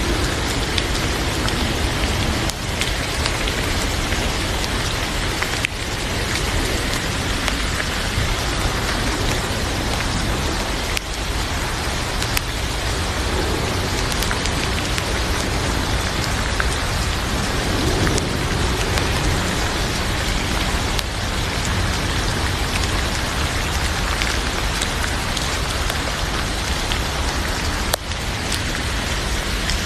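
Heavy rain falling steadily, with scattered sharp ticks through it.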